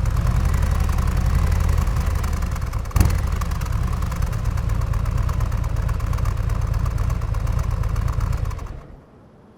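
Harley-Davidson Road Glide 3's Milwaukee-Eight V-twin engine idling with a lumpy, uneven beat, with one sharp pop about three seconds in. The engine sound dies away near the end.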